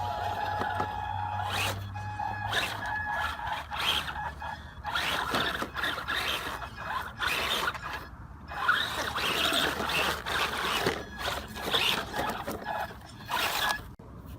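FEIYUE FY12 1:12 RC truck driving over rough ground: the gritty scraping of its tyres comes in irregular surges of a second or two. For the first couple of seconds a steady whine, likely its 390 brushed motor, runs under the scraping.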